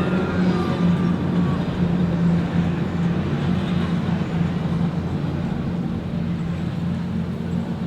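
Motorboat engines running with a steady low drone.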